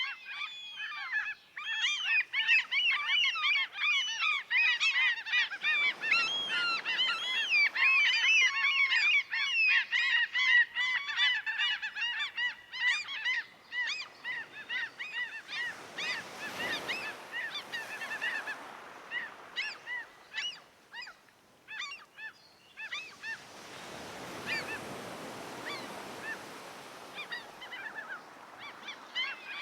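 A flock of gulls crying, many short calls overlapping densely at first and thinning out about halfway through. Two long swells of the sea's rushing noise come up in the second half.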